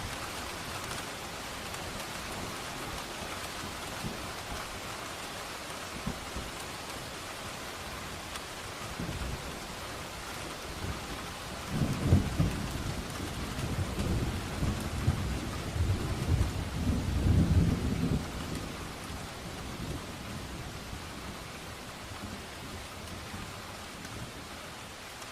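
Steady rain falling, with a long rumble of thunder that swells about nine seconds in, peaks twice and fades away by about eighteen seconds.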